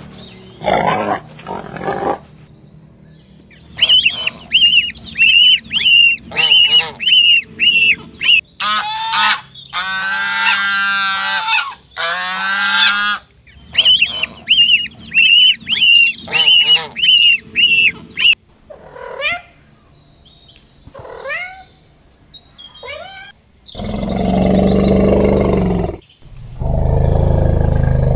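A series of different animal calls one after another: runs of short high calls repeated about twice a second, several seconds of wavering pitched calls, a few quick rising calls, then two long, loud, rough calls near the end.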